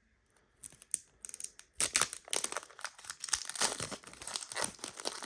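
Foil trading-card pack wrapper crinkling and tearing as it is opened, starting about two seconds in after a quiet moment.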